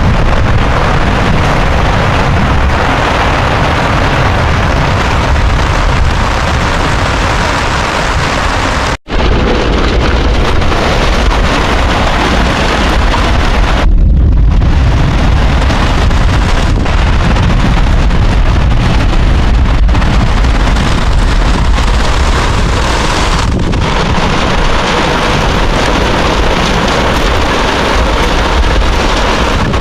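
Heavy downpour of rain, loud and steady, with wind buffeting the microphone. The sound cuts out for an instant about nine seconds in.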